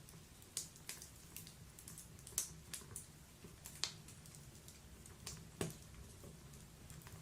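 Wood fire in a fireplace crackling: irregular sharp pops and snaps from the burning logs, the loudest about two and a half, four and five and a half seconds in, over a faint low rumble of the flames.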